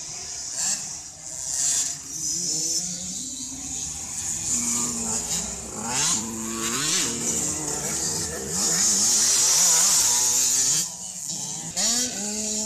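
Small two-stroke motocross bikes from the 65cc and 85cc youth classes racing, their engines revving up and down through the gears. The sound swells to its loudest about nine to ten seconds in as the bikes pass, then drops away.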